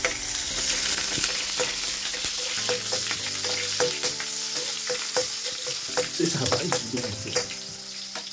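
Garlic sizzling in hot cooking oil in a pan, with a cooking utensil clicking and scraping against the pan as it is stirred.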